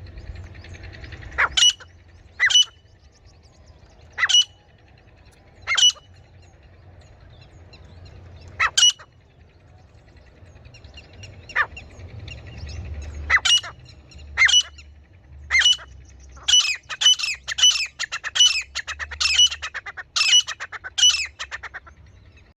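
Female grey francolin calling: sharp, high single calls a second or more apart, then a quick run of about ten calls near the end, over a faint low rumble.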